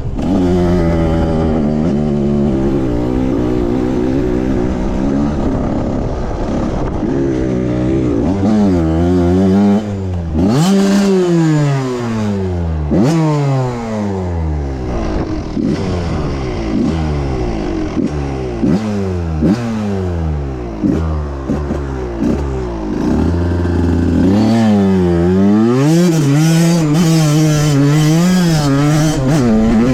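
Pit bike engine revving hard as it is ridden, its pitch climbing and dropping again and again, with a stretch of quick repeated throttle blips in the middle.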